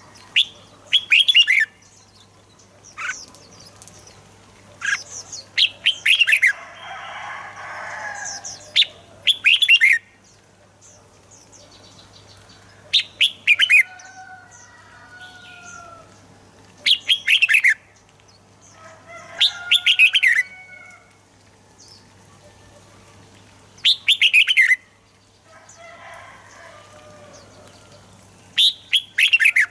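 Red-whiskered bulbuls singing in short, loud bursts of quick falling notes every few seconds, with softer warbled phrases in between.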